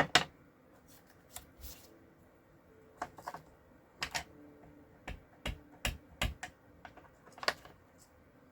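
Scattered sharp clicks and taps of stamping supplies being handled on a craft desk, some coming in quick pairs, as a bobber image is stamped.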